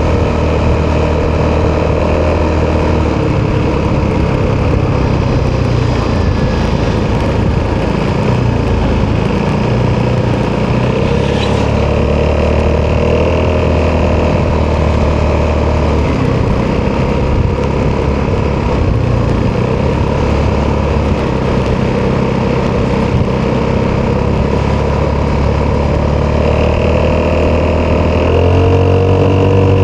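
Italjet Dragster 200 scooter's single-cylinder four-stroke engine running through an Akrapovic exhaust while riding, its note rising and falling with the throttle and climbing near the end.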